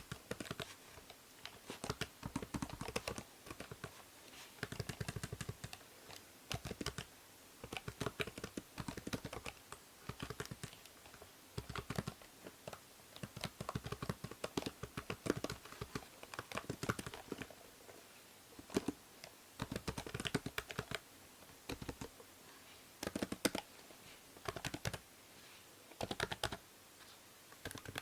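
Typing on a computer keyboard: quick runs of key clicks broken by short pauses, over a faint steady hiss from the binaural microphone.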